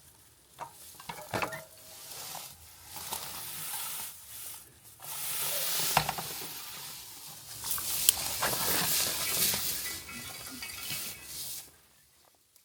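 Campfire crackling and hissing, with a few sharp pops and surges of hiss that fade away near the end.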